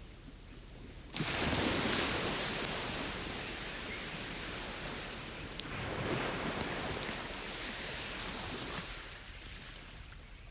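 Ocean waves washing onto a beach: a rush of surf that comes in suddenly about a second in, surges again around six seconds and eases off near the end. A few sharp pops from a crackling wood campfire sound over the surf.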